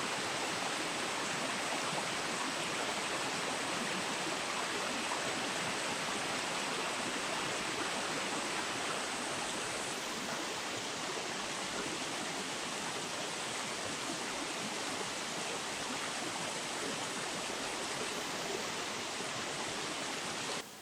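Steady rush of flowing river water, an even hiss without a beat, cutting off suddenly near the end.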